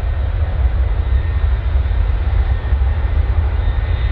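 Jet airliner engines running, a steady low rumble with a broad roar over it.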